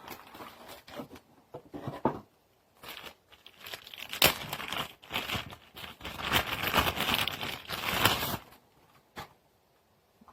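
Packaging being crinkled and torn open by hand while unboxing, an irregular crackling rustle that stops about 8.5 seconds in, followed by a single click.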